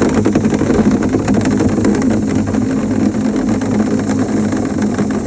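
A motor-driven dryer vent cleaning tool running steadily under load, with a constant hum and a dense, fast rattle.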